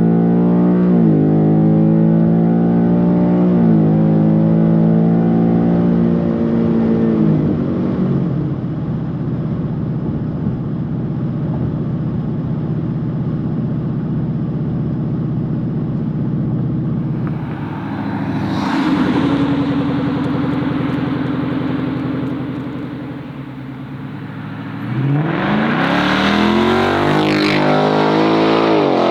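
Ford S650 Mustang GT's 5.0-litre V8 running through an AWE catback exhaust under hard acceleration, the pitch climbing and dropping at two quick upshifts. It then eases off to a steady cruise and winds up hard again near the end.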